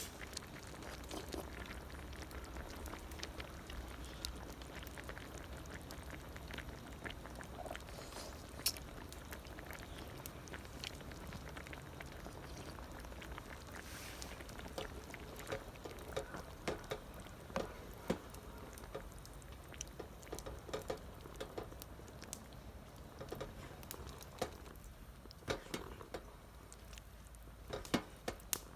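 A pot simmering on the heat, with irregular small bubbling pops and ticks over a low steady hum.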